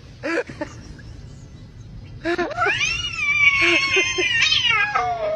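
A cat's long, drawn-out meow, about three seconds long, starting about two seconds in; it rises in pitch, holds, then slowly falls.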